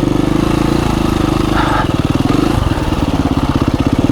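2017 KTM 350 EXC-F's single-cylinder four-stroke engine running at low revs, with a steady train of firing pulses.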